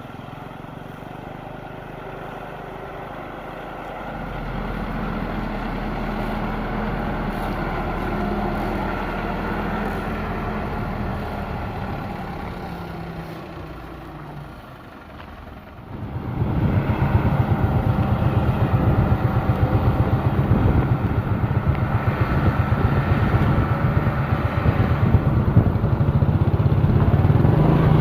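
Engine of a truck laden with sugarcane running. It grows louder a few seconds in, fades, then becomes much louder and steadier from about halfway through.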